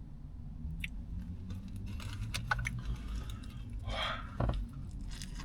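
Close-up chewing of a turkey, bacon and ranch sub sandwich: wet mouth clicks and smacks that get busier about two seconds in.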